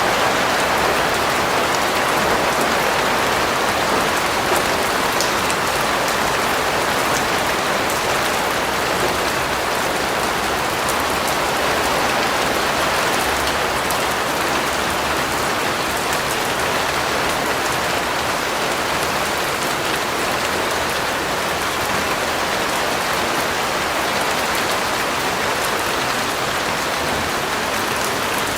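Steady rain falling on a surface, an even hiss of many drops with fine pattering on top, unchanging throughout.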